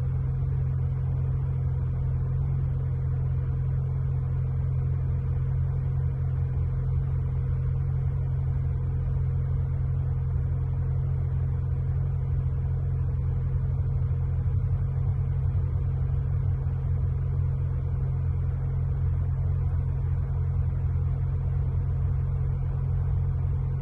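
Nissan car engine idling steadily while it warms up, running a high idle (around 2,000 rpm) after a new electronic throttle body was fitted.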